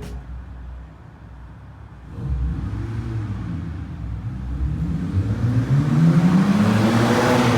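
Exhaust of a BMW E92 with an N52 straight-six, muffler deleted but resonators still fitted, accelerating hard: after about two quieter seconds the engine note comes in and climbs in pitch as it revs up, loudest near the end.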